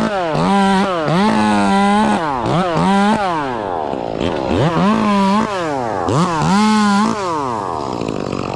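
Two-stroke chainsaw revved up to full speed and let back down several times in quick succession, its pitch climbing to a steady high note with each squeeze of the throttle.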